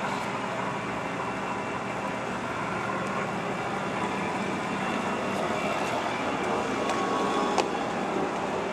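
Steady mechanical hum of machinery, with a few faint ticks and one sharper click near the end.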